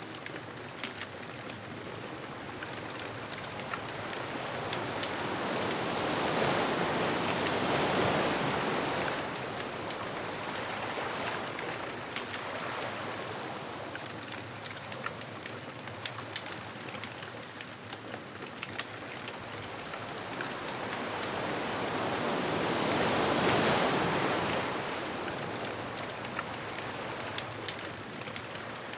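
Ocean waves rolling in and washing up the beach, two slow swells that build and fade about fifteen seconds apart, over a light, steady crackle of a wood bonfire.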